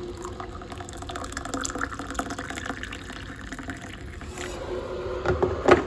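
Hot water being poured from a kettle into a cup for green tea, a steady trickling pour. It ends with a few knocks near the end, the loudest just before the close.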